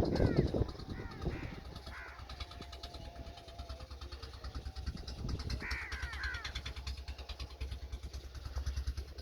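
An engine runs steadily with a low, even pulsing drone, fitting the water pump engine used to flood the rice field. Birds give short, falling calls in the first two seconds and again around six seconds in.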